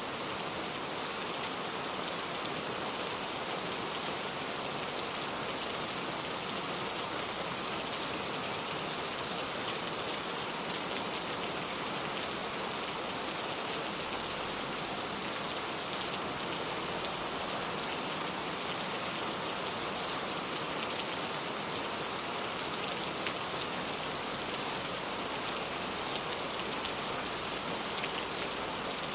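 Heavy rain pouring steadily, a dense hiss with many small drop patters on surfaces.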